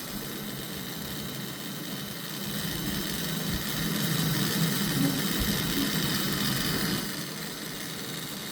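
PC case fans (coolers) running with a loud, abnormal whirring drone, a steady hum under several steady whining tones: the fans have developed a fault. It swells louder about three seconds in and drops back near the end.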